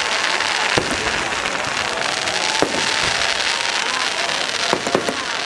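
Fireworks display: a dense, continuous crackle of bursting shells with sharp bangs about a second in, midway, and a quick cluster of them near the end.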